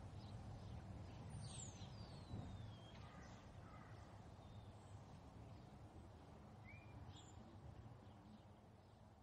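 Faint outdoor ambience with a few bird calls: a long falling whistle about a second and a half in and short chirps near seven seconds, over a low rumble that slowly fades.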